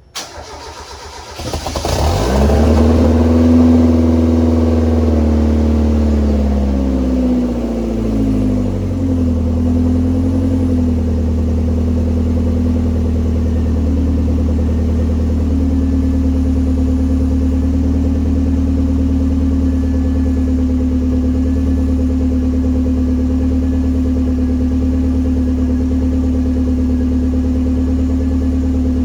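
Mazda Eunos Roadster with a swapped-in Mazdaspeed Miata (MSM) turbocharged 1.8-litre four-cylinder, cold-starting through a 2.5-inch exhaust and Vibrant valved muffler. It cranks briefly and catches about a second and a half in, flaring up in revs; the revs then fall over several seconds and settle into a steady cold idle.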